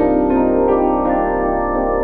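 Background piano music: slow notes struck one after another, ringing on over a held low chord.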